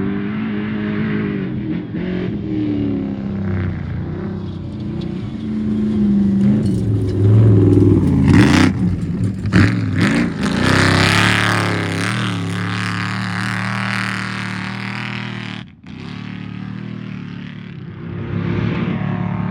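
Off-road race vehicle engines revving hard, pitch rising and falling as they accelerate and pass, loudest about halfway through. The sound cuts out for an instant near the end.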